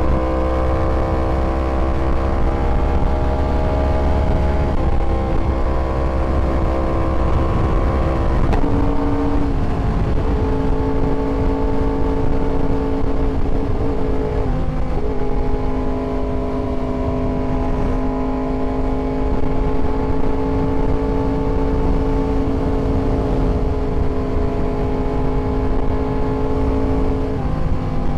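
Yamaha R1 sport bike's inline-four engine running at a steady pitch that steps lower a few times, as at a gear change or an easing of the throttle, then climbs again near the end. A low rumble sits under it for the first several seconds.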